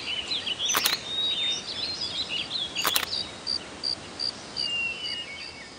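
Several small birds chirping and twittering, with one bird repeating a short high note about three times a second in the second half. Two brief sharp clicks stand out, about a second in and about three seconds in.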